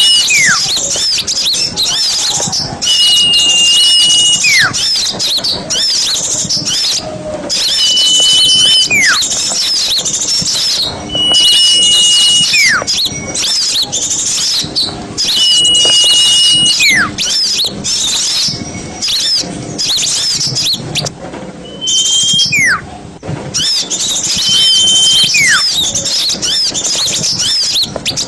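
A busy chorus of small birds calling, used as a lure for forest birds. Dense high chattering runs throughout, and a held whistle followed by a falling whistle repeats about every four seconds.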